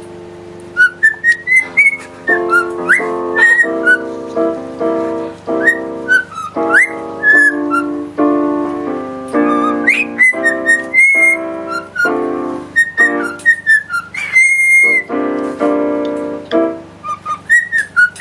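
Piano chords played in a steady run, with a parrot whistling short, sliding notes of a tune over them and holding one longer whistle note near the end.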